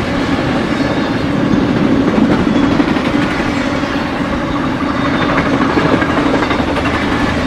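BNSF intermodal freight train's flatcars loaded with truck trailers rolling past, a loud, steady rumble of steel wheels on the rails.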